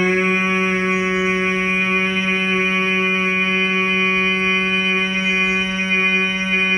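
Bhramari pranayama humming: one long, loud hum of a person's voice, held on a single steady pitch without a break, the bee-like buzz made on the exhale.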